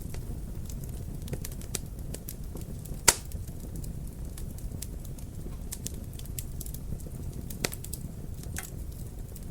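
Wood fire crackling in a fireplace: a low steady rumble of flames under scattered sharp snaps, with one loud pop about three seconds in and another shortly before the end.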